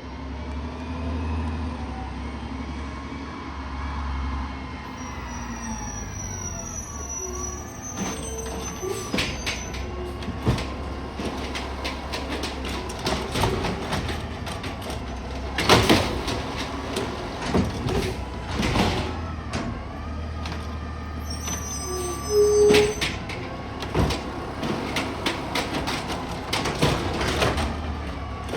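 Garbage truck's engine running and revving, with rising and falling whines from its hydraulics, then a long series of sharp knocks and bangs from the bins and lifting gear, loudest about halfway through and again about three quarters of the way in.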